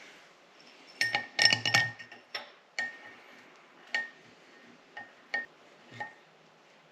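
Metal clinking with a short bright ring: a quick cluster of clinks about a second in, then single clinks every half second to a second, as a steel head bolt and hand tools are handled on the engine's cylinder head.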